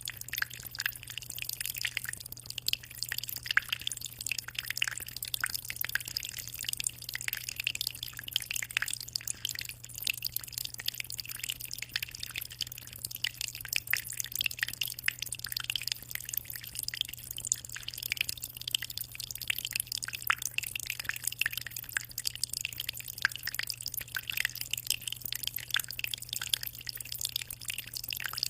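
Aquarium water trickling and splashing at the surface in a dense, irregular patter of small drips and bubbles, over a steady low hum.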